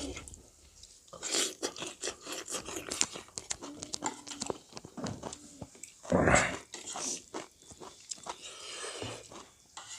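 Close-up mouth sounds of someone eating pork curry: chewing, crunching and lip smacks, heard as a string of short sharp clicks. There is one louder noisy sound about six seconds in.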